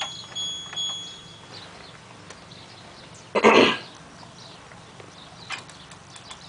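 LG washing machine's control panel beeping in a few short high tones as the programs are stepped through, with light clicks. About three and a half seconds in comes a short, loud cough.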